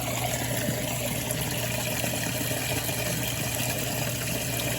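Sump pump running, a steady low hum under a continuous rush of water.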